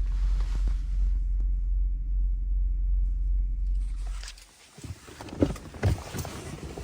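A truck running with a steady low drone that stops abruptly about four seconds in. After it come a few sharp knocks and some clatter, the loudest about a second later.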